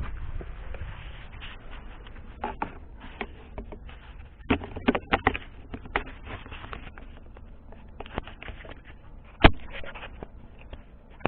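Datsun on-DO suspension creaking and knocking over bumps: irregular clicks and squeaks over a low road rumble, with a cluster of sharper knocks about halfway through and one louder knock near the end. This is the squeak being hunted in the suspension.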